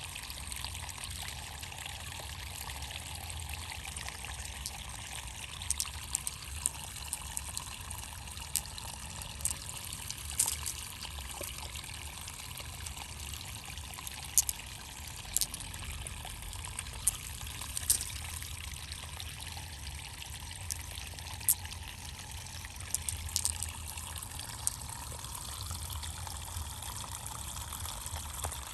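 Water trickling and pouring steadily, with scattered short, sharp clicks at irregular moments.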